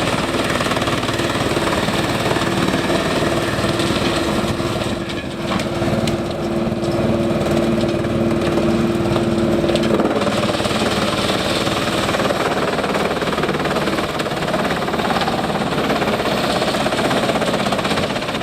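Industrial wood chipper driven by a Scania diesel engine, running steadily. About ten seconds in, a steady hum drops out and the sound turns rougher.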